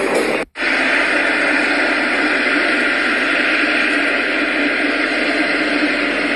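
Steady, loud rushing noise with no pitch or rhythm, starting about half a second in after a brief cut.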